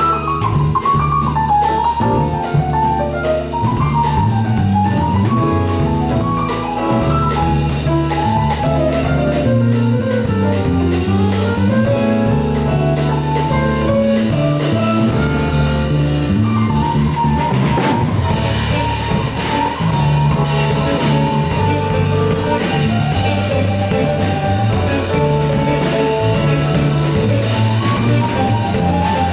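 Jazz combo playing live: the drum kit and bass keep a steady groove under a winding melodic lead line.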